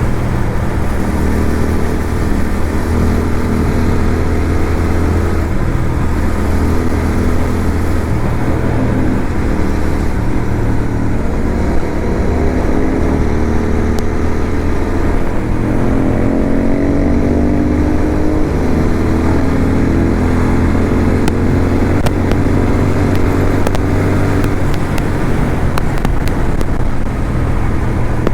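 Motorcycle engine running steadily under riding, its note climbing in pitch for several seconds midway through.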